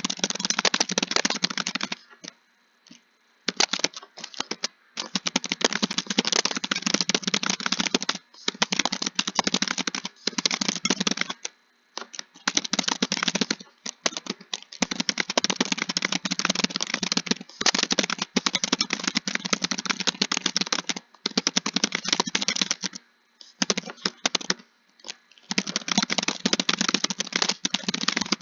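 Fast typing on a computer keyboard, dense runs of key clicks broken by short pauses every few seconds.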